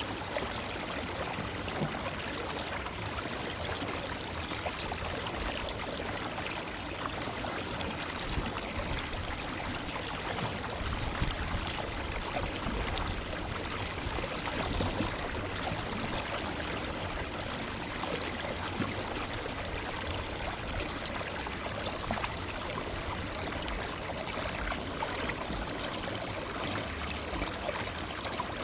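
Forest river flowing steadily over stones, an even rushing and babbling of water.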